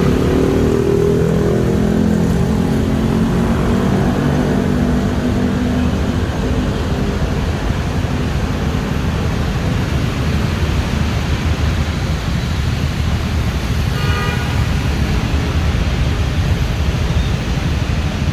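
Heavy city road traffic on wet roads: a constant low rumble of engines and tyre noise. In the first few seconds one vehicle's engine rises in pitch as it pulls away, and a short horn toot sounds about 14 seconds in.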